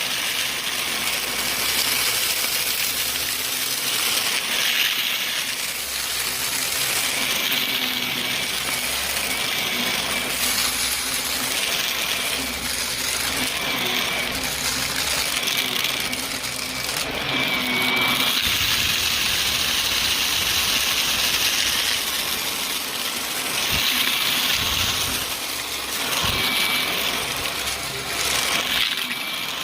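Shark Navigator upright vacuum cleaner running with its brushroll spinning, a steady motor hum with a faint high whine. A rattling crunch comes through as debris is sucked up, and the hiss swells and eases every couple of seconds as the vacuum is pushed back and forth.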